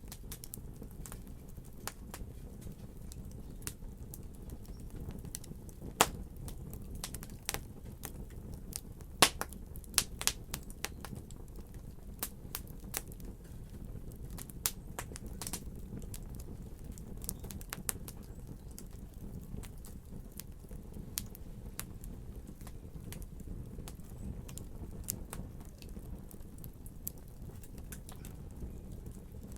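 Wood fire crackling: irregular sharp pops and snaps over a steady low rumble of the flames, with a burst of louder pops about nine to eleven seconds in.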